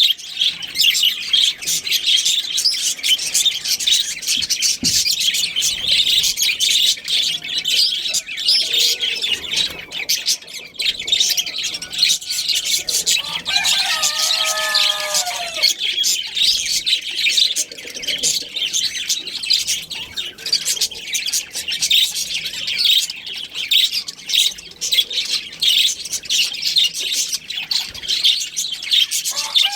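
A flock of budgerigars chattering and chirping continuously. About halfway through there is one lower, longer call from another bird.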